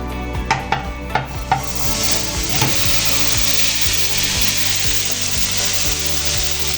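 A few sharp knocks, then from about two seconds in a loud, steady sizzle of food frying in hot oil, over quiet background music.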